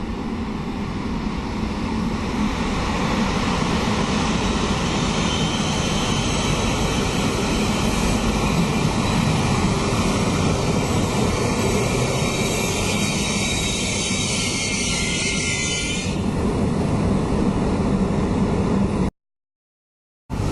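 Train passing through a railway station: a loud, steady rushing rumble that builds over the first couple of seconds. The hissing upper part stops suddenly about three-quarters of the way through, and the sound cuts out completely for about a second near the end.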